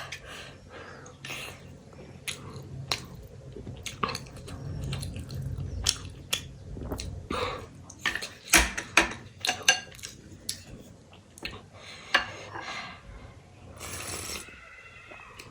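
Close-up eating sounds: wet chewing and smacking with a run of short, sharp clicks and snaps, and a longer slurp or sip near the end.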